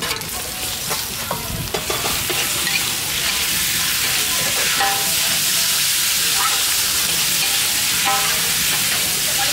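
Food frying in hot oil: a steady sizzling hiss.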